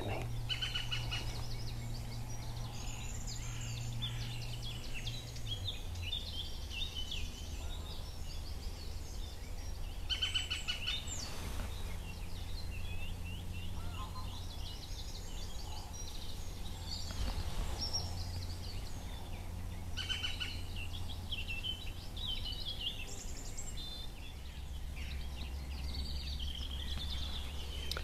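Songbirds chirping and warbling in the surrounding trees, with a rapid high trill recurring about every ten seconds, over a steady low background rumble.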